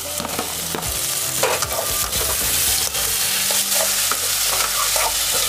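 Onions and freshly added chopped tomatoes frying in oil in a metal kadhai with a steady sizzle, while a perforated metal spatula stirs them with repeated scraping strokes against the pan.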